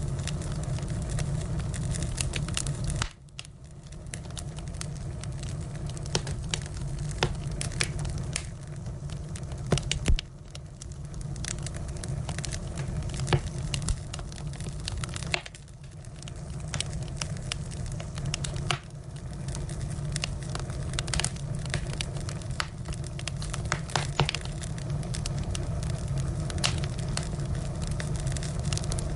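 Firewood burning, crackling and popping with many sharp snaps over a steady low rumble. The rumble drops out suddenly a few times, about three, ten and fifteen seconds in, and builds back each time.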